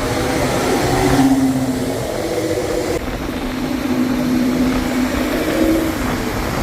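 Car engine running, its pitch holding and then shifting up and down every second or so.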